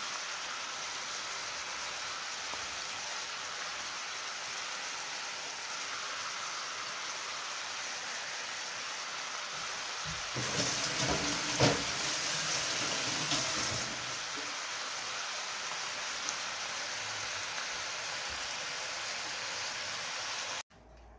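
Sliced chicken, mushrooms and garlic sizzling steadily in a frying pan. The sound grows louder and fuller for about three seconds around the middle, with a single sharp knock, then cuts off abruptly just before the end.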